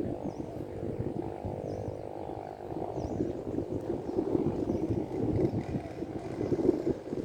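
An engine running steadily with a rapid low rumble, with a faint higher hum over it for the first three seconds.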